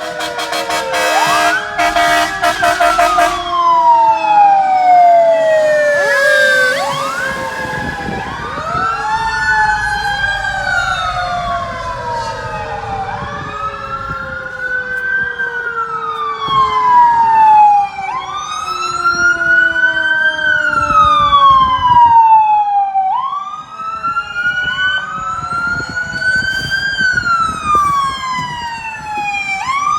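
Fire truck siren wailing, each sweep rising quickly and falling slowly about every two to three seconds, with more than one siren overlapping. A horn blares in the first few seconds.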